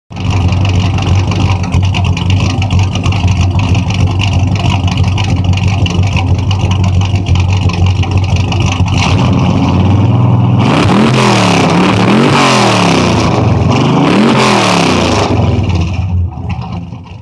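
Carbureted or fuel-injected V8 muscle-car engine running at a steady, loud idle, then revved up and down a few times about ten seconds in before it fades out near the end.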